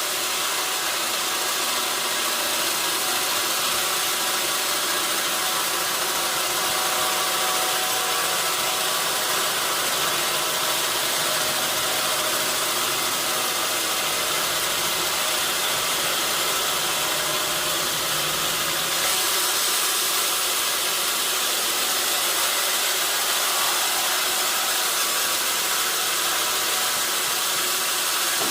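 Sawmill saw running, a steady, continuous hiss of machinery with no breaks; it gets slightly louder about two-thirds of the way through.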